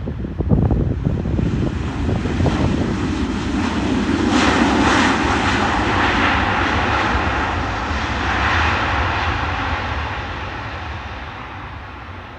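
Airliner passing by, its engine noise swelling over the first few seconds, loudest around the middle, then fading away toward the end.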